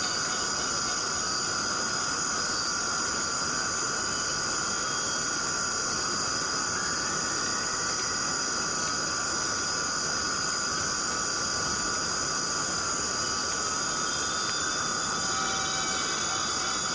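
Steady rain falling, under a continuous chorus of rainforest insects buzzing in several steady high pitches.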